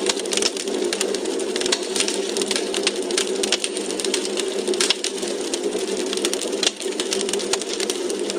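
Logs burning in a fireplace, crackling: a steady hiss with frequent irregular sharp pops and snaps, a few louder than the rest.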